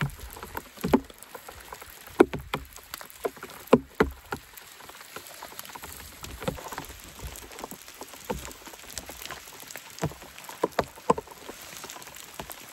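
Rain pattering: scattered, irregular drops tapping close by over a faint steady hiss.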